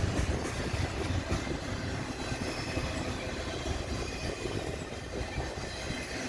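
Union Pacific intermodal freight train rolling past: a steady rumble of steel wheels on the rails with a busy clatter of wheel clicks.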